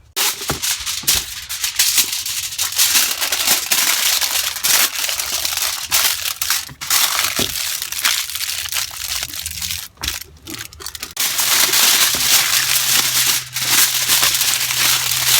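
Aluminium foil being crinkled and crumpled by hand, a dense crackling that goes on with a few short pauses, as vegetables are wrapped in it.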